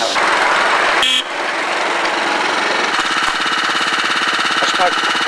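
A brief hiss of escaping steam, then a small engine running with a fast, even beat of knocks.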